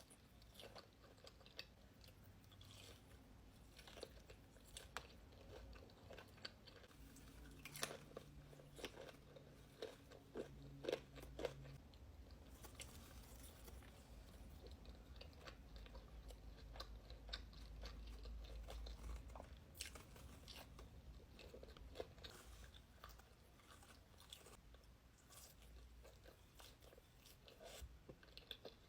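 Faint close-up eating: a person biting and chewing food with irregular soft crunches and mouth clicks, a little louder for a few seconds about a third of the way in.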